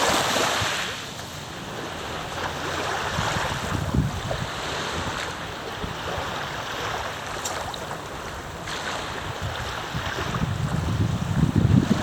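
Wind blowing across the microphone over lake waves washing; the wind buffeting grows stronger near the end.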